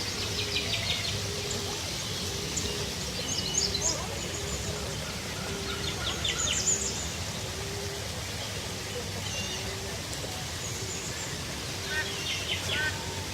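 Small birds chirping and twittering, several at once, over a steady low background hum, with a short low note repeating about every two-thirds of a second.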